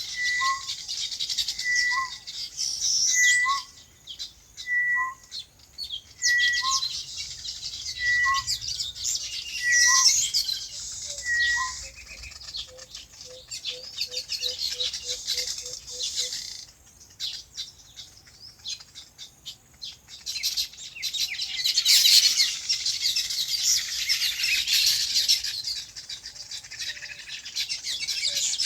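Many small birds chirping together in a busy chorus, which thins out for a few seconds and thickens again about two-thirds of the way through. Over the first third one bird repeats a short call of two notes, a high one and a lower one, about once a second. A quick run of low notes follows near the middle.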